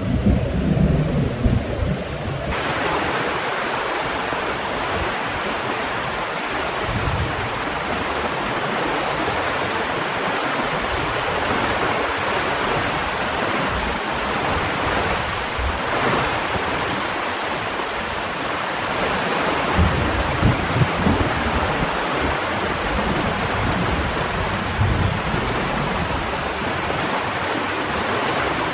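Heavy rain falling steadily as a dense hiss. A thunder rumble fades out in the first two seconds, and the rain hiss turns suddenly fuller about two seconds in.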